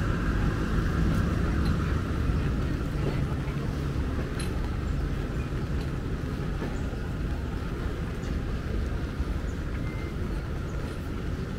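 Passenger train carriages rolling slowly past, a steady low rumble that gradually fades.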